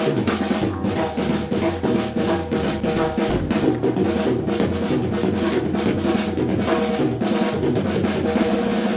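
Live band playing an instrumental passage, with a drum kit keeping a steady, busy beat under bass and held instrument notes.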